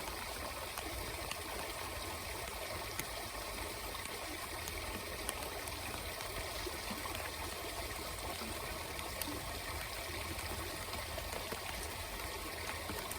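Steady rush of flowing river water, an even hiss with a few faint ticks scattered through it.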